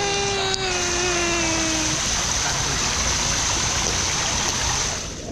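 Steady rush of splashing, falling water from a pool's water slides and waterfall, which drops away sharply near the end. Over the first two seconds a single long held note, like a voice, slides slowly down in pitch.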